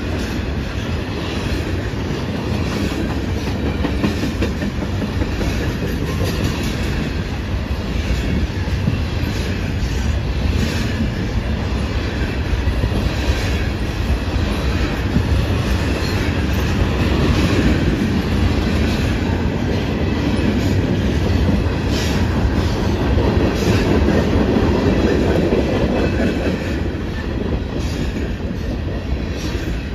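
Covered hopper cars of a freight train rolling past close by: a steady rumble of steel wheels on the rails with an irregular clickety-clack as the wheels pass over the track.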